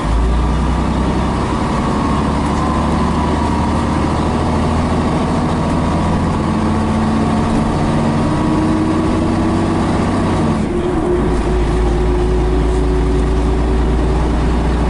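Scania BR111H bus's diesel engine pulling under load, its note slowly climbing, with a faint whine above it. About ten and a half seconds in the sound changes abruptly, with a heavier low rumble, as the two-speed automatic gearbox shifts, and the engine then climbs again.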